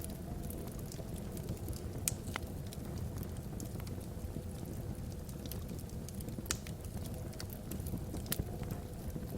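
Wood fire burning in a fireplace: irregular sharp crackles and pops from the logs, a few each second, over a low steady rumble of the flames.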